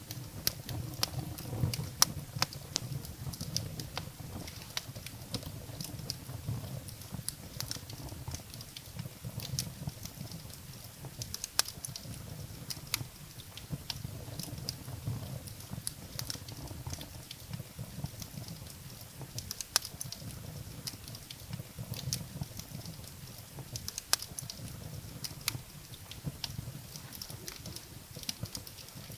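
Firewood burning in a fireplace: irregular sharp crackles and pops, a few of them much louder, over a low steady rumble of the flames.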